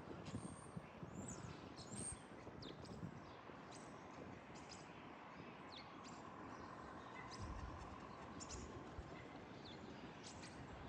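A group of common starlings calling, with many short whistles and chirps scattered throughout, faint over a steady background rumble.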